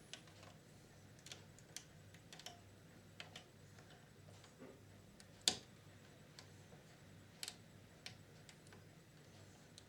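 Faint, irregular small clicks and taps, with one sharper tap about five and a half seconds in: small parts and tools being handled during hands-on work on a VCR's tape transport mechanism.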